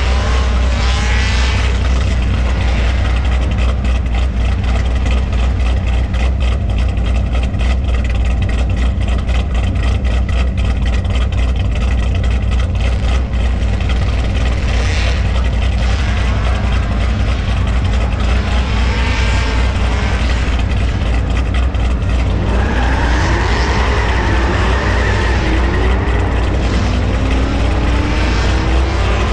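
Car engines running with a steady low rumble. About two-thirds of the way through, an engine revs up in several rising sweeps, like a car accelerating through its gears.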